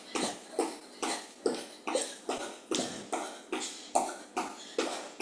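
A person breathing hard in sharp, rhythmic puffs, about two to three a second, in time with a fast cardio sprint.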